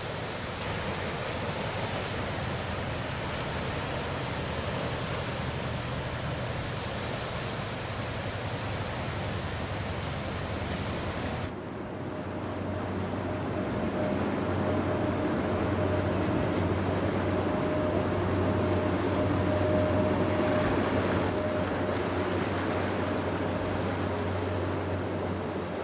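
Rushing water and wind noise, then, after a sudden change a little under halfway through, the steady drone of an inland cargo ship's diesel engine passing on the river. The drone swells to its loudest about three quarters of the way through and then eases off.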